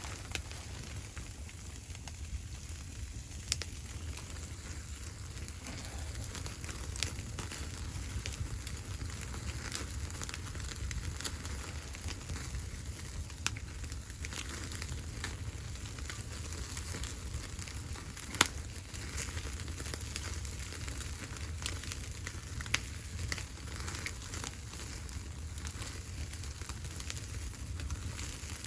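Wood fire burning in a stove: a steady hiss with scattered sharp crackles and pops, the loudest about 18 seconds in, over a constant low rumble.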